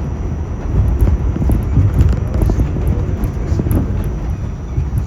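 An R46 subway train running on the elevated Astoria line: a steady low rumble of wheels on steel rail, with irregular clacks and knocks that are loudest in the first couple of seconds.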